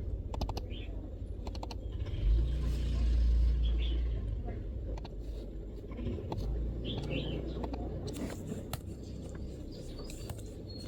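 Scattered clusters of MacBook keystrokes over a low rumble that swells about two seconds in and then fades, with faint bird chirps now and then.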